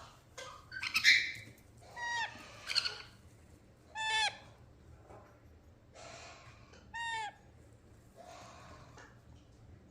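Pet parrots calling: several short, clear calls, each bending down in pitch, spaced a second or more apart, with a harsher, louder squawk about a second in.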